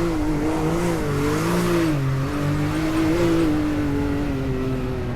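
Off-road vehicle's engine pulling hard up a steep, soft hill, its pitch rising and falling with the throttle over a steady rushing noise.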